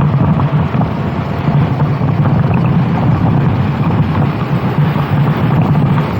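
Racing kart engine running under load at speed, with heavy wind buffeting on the onboard microphone.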